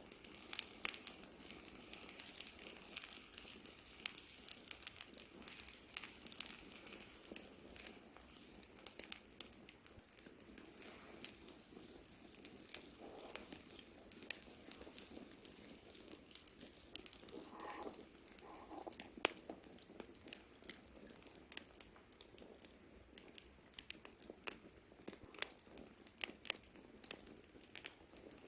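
Campfire burning, wood crackling and popping in quick, irregular snaps.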